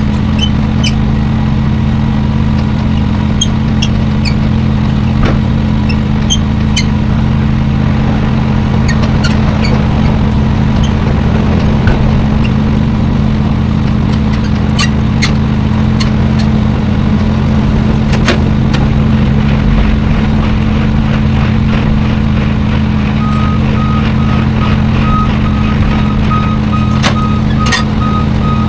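Semi-truck diesel engine running steadily, with scattered light clicks. About two-thirds of the way through, a reversing alarm starts up, beeping in an even rhythm.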